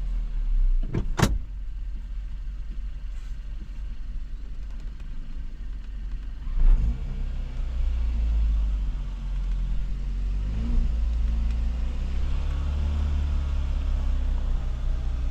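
Kia Forte GT's turbocharged four-cylinder direct-injection engine running at a raised idle while intake-valve cleaner is drawn into the intake. A sharp knock comes about a second in. About halfway through, the engine speed picks up and it runs steadier and louder, near 1,750 rpm.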